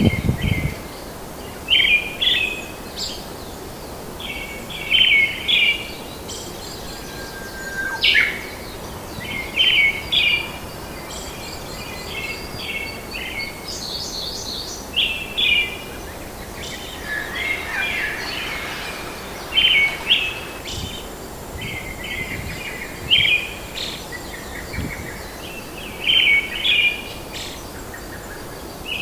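Several birds calling in a forest: repeated short bursts of chirps every second or two over a steady background hiss, with a few higher whistled notes between them.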